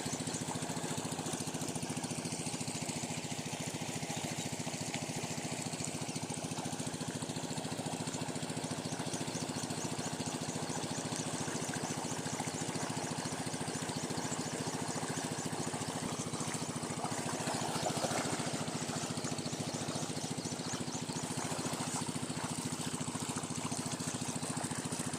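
8 hp Rajkot single-cylinder diesel engine of a water pump set running steadily at constant speed.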